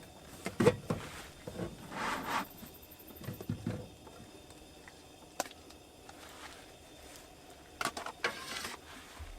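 A few sharp knocks and clicks with short bursts of rustling, like things being handled.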